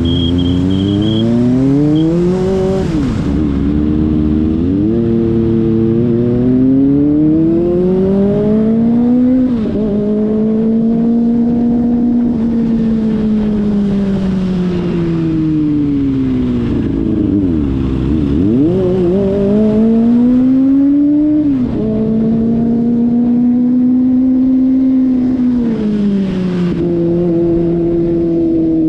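Kawasaki ZX-25RR's 249 cc inline-four engine under way. Its pitch climbs and drops sharply at gear changes several times, and in between it swells and eases off over several seconds.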